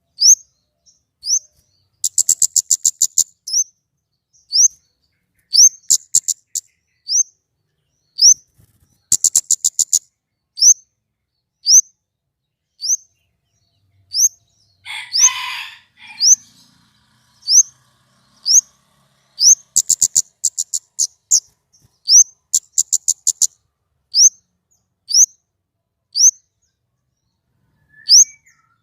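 Small songbird calling: short, high, upward-sweeping chirps about once a second, broken several times by fast rattling trills of around ten quick notes, and one harsh, scratchy call about halfway through.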